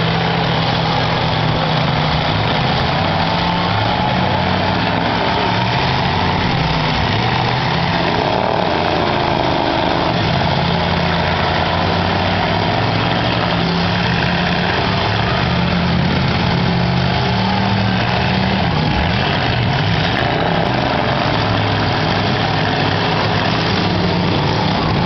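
Several demolition derby cars' engines running at once, loud and steady, their pitches wavering as the drivers rev and push.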